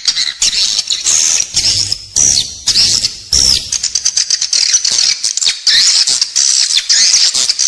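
Edible-nest swiftlets twittering in a dense chorus of rapid, overlapping chirps. This is a swiftlet calling track, the lure sound played inside a swiftlet house to draw the birds in to roost and nest.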